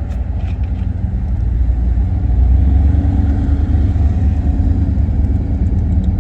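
1990 GMC 1500 pickup's engine running, getting louder about two seconds in, from an engine the owner says has a ticking lifter.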